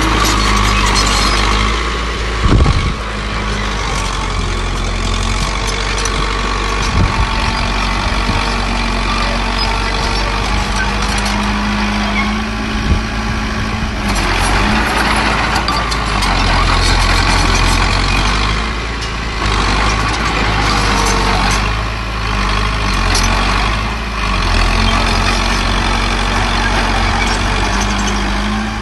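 Heavy diesel engines of a bulldozer and dump trucks running steadily, swelling louder a few times in the middle as they work under load, with a few sharp metallic knocks in the first half.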